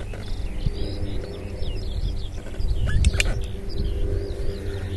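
Birds chirping in many short calls over a steady low rumble, with two sharp clicks about three seconds in.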